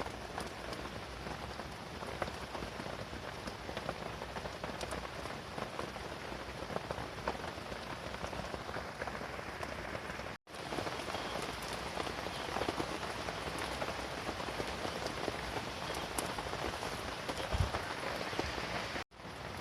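Steady rain pattering on a canvas tent, with many small drop ticks; the sound cuts out briefly twice, about ten seconds in and near the end.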